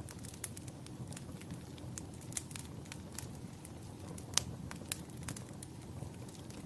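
Wood fire crackling in a fireplace: irregular sharp pops and snaps over a low, steady rumble of the flames, with one louder pop a little past halfway.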